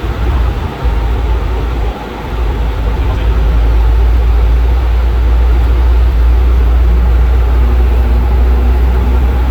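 Airplane cabin noise on approach in gusty wind: a steady rush of engine and airflow noise with a heavy low rumble. It is uneven for about the first two seconds, then settles into a steady level.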